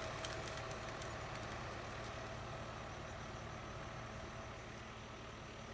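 Tractor engine running steadily with a low hum, slowly getting quieter, with a few light clicks in the first couple of seconds.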